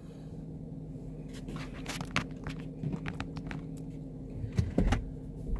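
Car engine idling with a steady low hum, under a run of irregular clicks and knocks from about a second in until near the end.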